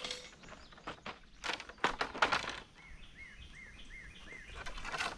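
Outdoor rustling and a few sharp cracks of brush and twigs being handled, then a bird calling a short note five times in quick even succession, and another rustle near the end.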